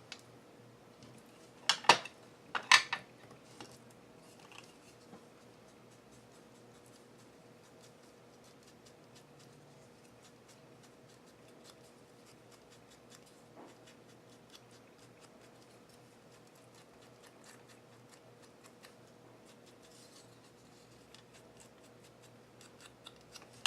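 Distress ink and tools being handled on a craft table: two sharp clacks about two and three seconds in, then faint light tapping and rubbing as ink is worked onto a tag.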